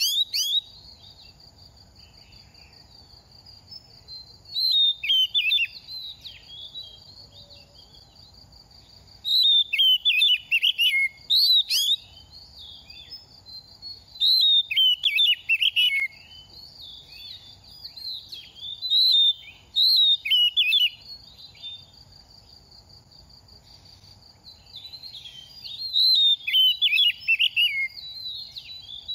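Oriental magpie-robin singing in bursts of rapid, varied whistled phrases with short pauses between them, over a steady high insect-like trill.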